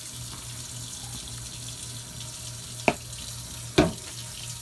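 Water running steadily from a kitchen tap, with a low pulsing hum underneath. Two sharp knocks sound about three and four seconds in.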